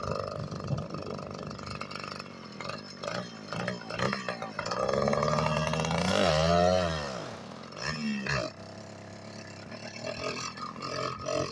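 Small motorized-bicycle engine running under way, revving up and back down about six seconds in and again briefly around eight seconds.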